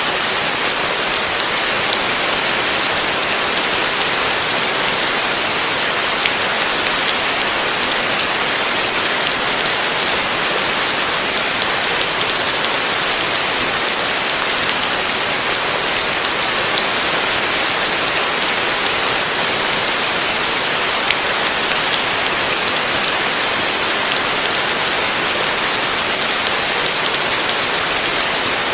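Heavy rain falling steadily on a roof, a dense even hiss of drops with fine pattering and no lulls.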